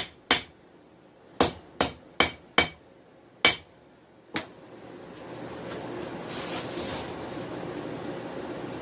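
Hammer striking hot 416 stainless steel on an anvil, drawing out a knife tang: about eight sharp blows, irregularly spaced, over the first four and a half seconds. After the last blow a steady rushing noise comes up and holds.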